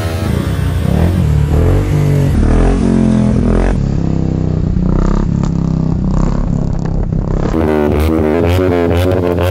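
Motorcycle engine revved hard and held at high revs during a rear-tyre burnout, its pitch climbing and dropping. Near the end the revs bounce quickly up and down.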